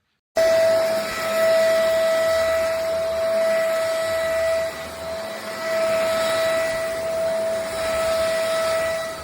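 Tower VL35 cordless stick vacuum's motor running with a steady high whine over a rushing hiss, switched on abruptly about half a second in.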